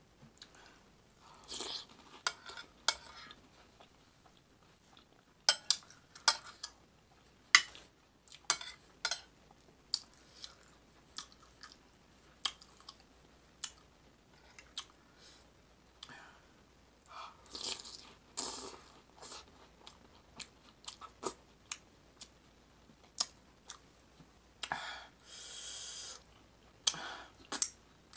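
Close-up eating sounds: crackers topped with chili being bitten and chewed, a run of sharp, irregular crunches with a few longer wet mouth noises in between.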